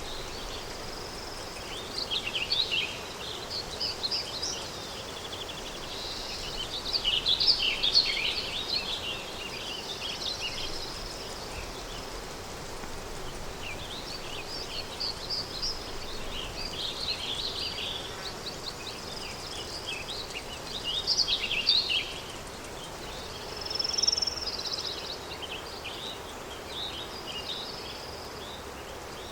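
Countryside daytime ambience: small songbirds chirping and twittering in bouts over a steady rush of wind.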